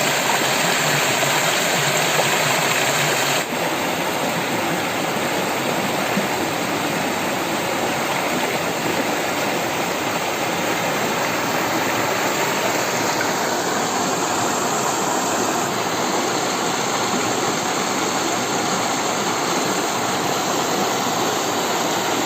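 A water stream flowing and rushing steadily, with a brief dip about three and a half seconds in where the sound changes slightly.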